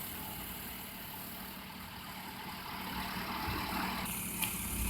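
Daihatsu Hijet mini-truck's small engine idling faintly and steadily, with a low hum. A faint click comes near the end.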